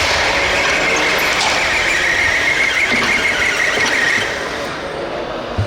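An RC pulling truck or tractor making a steady high-pitched squeal during a pull, the drive working against the load. The squeal stops a little past four seconds in, and a short low thump follows near the end.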